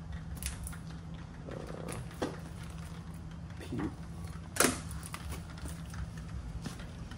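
A steady low hum with scattered light knocks and one sharp knock about four and a half seconds in.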